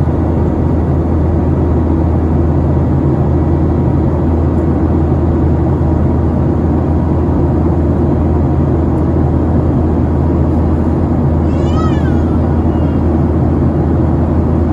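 Steady loud cabin noise of a Boeing 737-900ER in flight: the drone of its CFM56-7B turbofans and the rush of air around the fuselage. About twelve seconds in, a brief high warbling squeak sounds over it.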